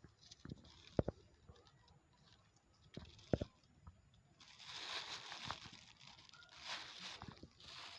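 Rustling and crinkling of handled plastic litter and dry ground cover, with two dull thumps about a second in and again near the middle.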